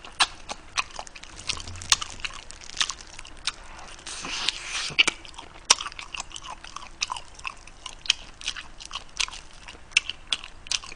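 Close-miked chewing and biting of spicy grilled pork trotters (bul-jokbal), eaten by hand: an irregular run of sharp smacks and clicks of mouth and meat, several a second.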